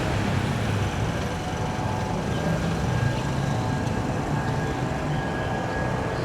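Jet airliner engines running: a steady low rumble with a steady whine on top.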